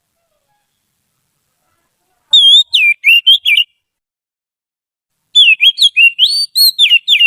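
Oriental magpie-robin (kacer) singing: two phrases of quick, sliding whistled notes, the first about a second and a half long, the second starting after a silent gap of nearly two seconds.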